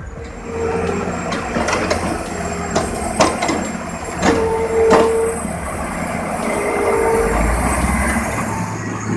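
Heavy log trucks loaded with timber running, with several sharp knocks and a few short squeals over a steady low rumble.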